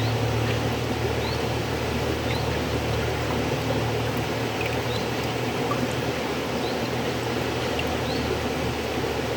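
River water flowing steadily: an even rushing wash with scattered faint, high plinks over it.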